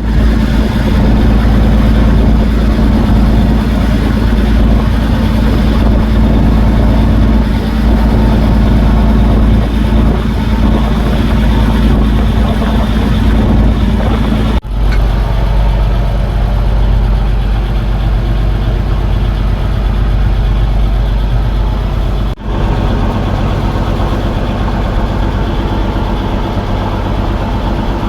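Fishing boat's engine running steadily, a loud low drone. It cuts out for an instant twice, about halfway and two-thirds of the way through.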